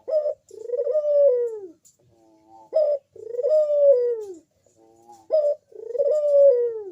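Crossbred puter dove cooing: three calls in a row, each a short clipped note followed by a long drawn coo that falls in pitch at its end, repeated about every two and a half seconds.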